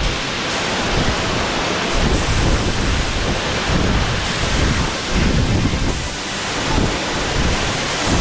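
Waterfall pouring, a loud, steady rushing of falling water, with wind buffeting the microphone in uneven low gusts.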